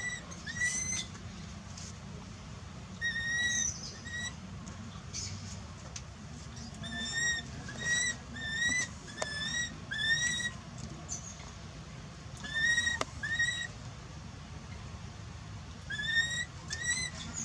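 A baby monkey crying with repeated short, high whistle-like cries. Each cry rises and then levels off, and the cries come in runs of two to six with short pauses between. This is the distress crying of an infant left without its mother.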